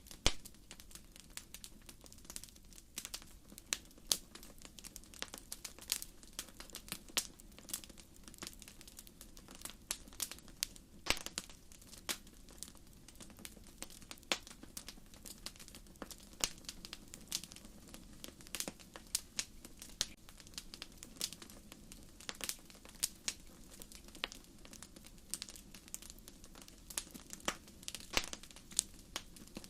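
Wood fire burning: logs crackling and popping in irregular sharp snaps, several a second, over a faint steady low rush of flame, with one louder pop right at the start.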